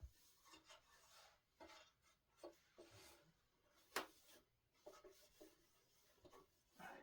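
Faint rubbing and scraping on wood with scattered light taps and one sharp click about four seconds in: the parts of a solid-wood dining table being handled during assembly.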